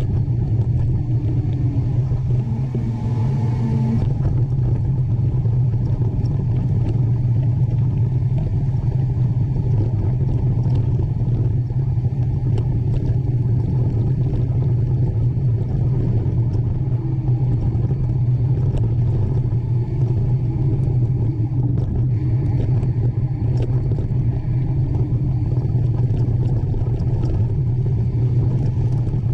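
A steady low rumble that runs on without a break.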